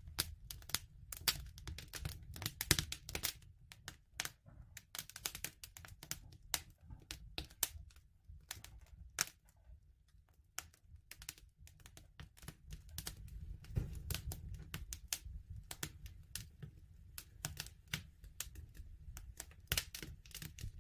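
Wood fire crackling: irregular sharp snaps and pops, some dense clusters and some sparse, over a steady low rumble of burning.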